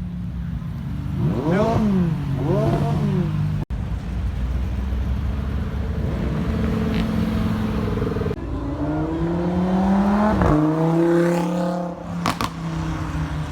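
Performance car engines revving and accelerating: two quick throttle blips early on, a steady run, then a hard acceleration with rising pitch that drops suddenly at a gear change, followed by another climb.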